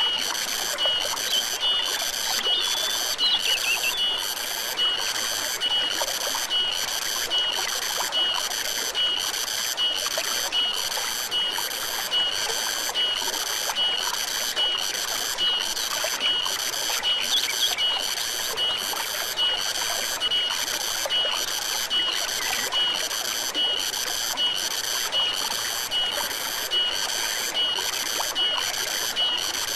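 Stream water trickling steadily, with a high chirping call repeating evenly about one and a half times a second. A few brief gliding calls, such as bird notes, sound near the start and about halfway through.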